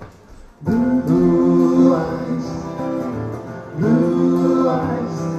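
A band, led by acoustic guitar, starts the song under a second in. Sustained melody notes swoop up into pitch twice.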